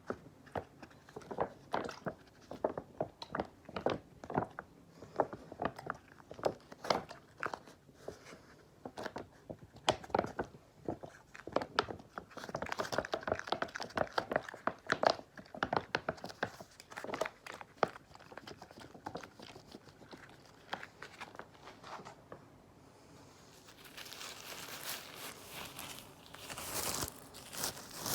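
Close-miked cleaning supplies being handled for ASMR: quick, irregular crunchy scratching and tapping, a brief lull, then a steady crinkling hiss near the end.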